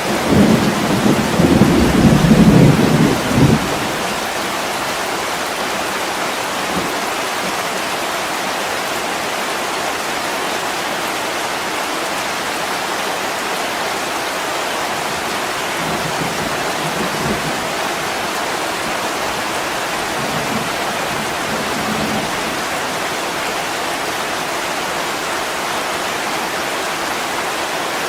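Heavy rain pouring steadily on a window, with a low rumble of thunder during the first few seconds and fainter distant rumbles later on.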